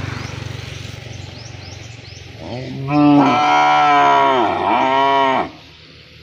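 A cow moos in one long, loud call of about three seconds, starting about two and a half seconds in, its pitch wavering and dipping in the middle before it cuts off. Before it, a few faint, quick, high chirps rise over a low hum.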